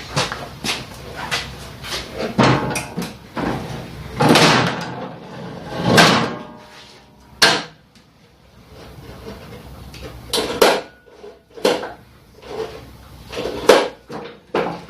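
Recoil pull-starter on a walk-behind mower's small Tecumseh engine being yanked again and again, each pull a short rushing rattle as the engine turns over without catching and running.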